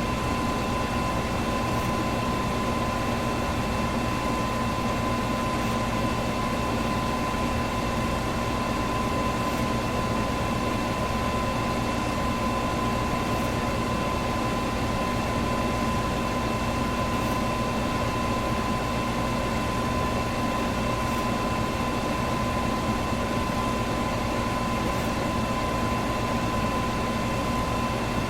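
Electric fan running steadily: an even whooshing rush of air with a constant motor hum and a few steady whining tones, unchanging throughout.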